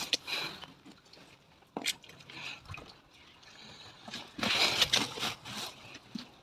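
Loose soil being scooped and piled around the base of a tomato plant to hill it up, heard as a few scraping, rustling bursts, the longest about four to five seconds in.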